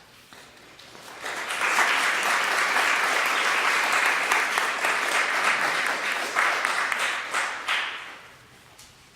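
Audience applauding: the clapping builds quickly about a second in, holds steady, then dies away near the end.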